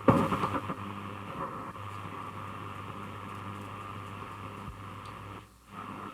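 Grundig Satellit 2100 shortwave radio receiving static between stations: a steady hiss with a low hum, sounding thin as through a radio speaker, with a crackly burst at the start and a brief dropout about five and a half seconds in.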